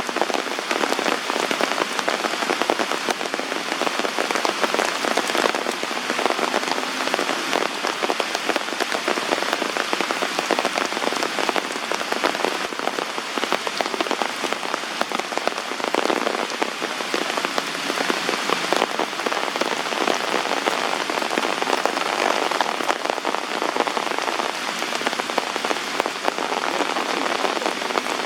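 Heavy downpour: a dense, steady patter of raindrops.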